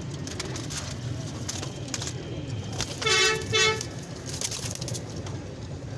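A vehicle horn honks twice in quick succession about three seconds in, over a steady hum of street traffic.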